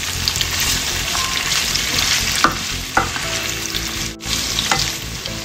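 Pre-boiled pork pieces sizzling in hot oil in a nonstick wok, stirred with a wooden spatula that knocks and scrapes against the pan a few times.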